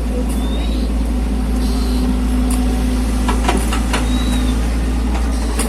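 A mini excavator's engine running steadily, with a few sharp knocks or clanks partway through.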